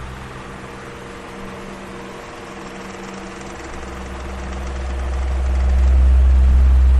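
Electric fan running with a steady motor hum and airy hiss. A deep rumble of air on the microphone fades out near the start and swells back up strongly over the second half.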